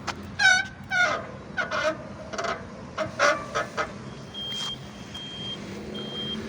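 Bicycle brakes squealing in a series of short, high-pitched squeaks, some bending down in pitch, as the brakes are applied; the squeal is a known fault of these brakes. From about four seconds in, a thin high beep repeats roughly once a second.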